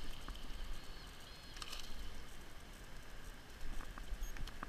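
Small bass being pulled from the water's edge and flopping on grass: scattered slaps and rustles, a cluster of them near the end, with wind rumbling on the microphone.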